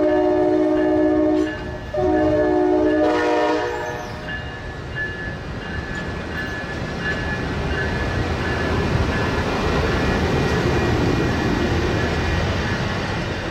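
Locomotive air horn sounding a chord in two blasts: the first ends about one and a half seconds in, and the second, after a brief gap, stops a little after three seconds in. The horn is followed by the steady rumble and wheel noise of the train rolling past.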